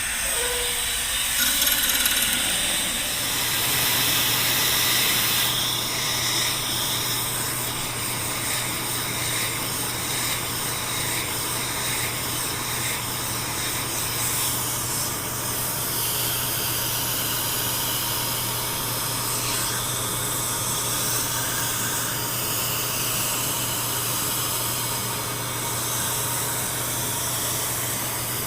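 Electric drill running steadily, spinning a homemade cleaning tool inside a motorcycle front fork tube to scour out rust. A different, rougher sound fills the first few seconds before the steady running settles in.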